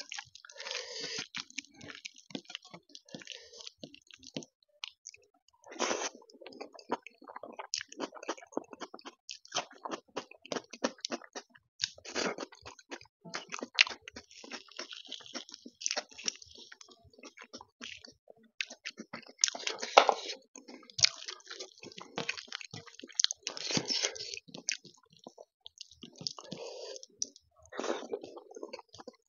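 Close-up chewing and wet mouth smacks of a man eating rice with taro root curry by hand, with soft squelching as his fingers work the rice on a metal plate. The sounds come as irregular short smacks and clicks, a few louder than the rest.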